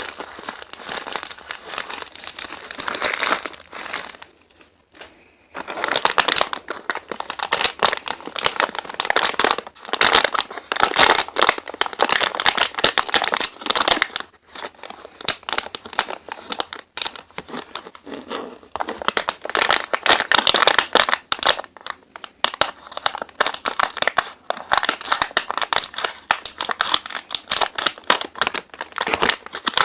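Packaging of a derma roller crinkling and crackling as it is handled and opened, with a short lull about four to five seconds in.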